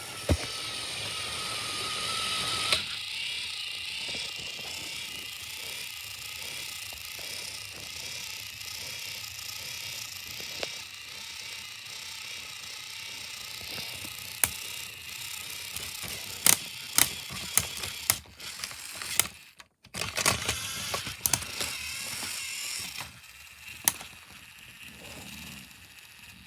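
Small electric motors and plastic gears of two battery-powered toy train engines whirring steadily as the engines strain against each other, with scattered clicks and knocks. The whirring cuts out for a moment about twenty seconds in, then starts again.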